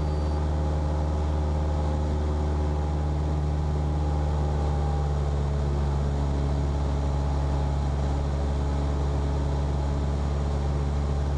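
Cessna 172P's four-cylinder Lycoming engine and propeller droning steadily in flight, one even, unchanging tone.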